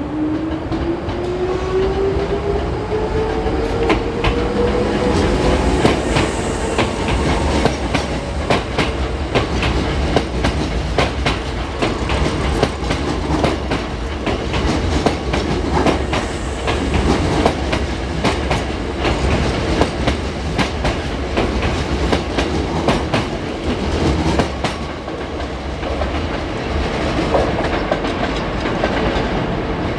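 Hankyu electric train pulling out. Its traction motors whine, rising steadily in pitch over the first few seconds as it gathers speed. The wheels then clatter repeatedly over rail joints and pointwork, with a steady rumble underneath.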